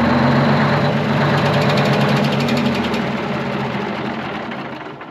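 Twin-turbo Detroit Diesel 12V71 two-stroke V12 generator engine running steadily. Its sound fades over the last couple of seconds and has stopped by about five seconds in.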